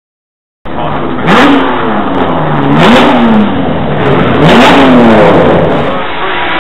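Classic racing car engines, Ferrari 250 V12s among them, revving loudly. The sound starts abruptly less than a second in, and the engine pitch rises and falls three times as the throttle is blipped.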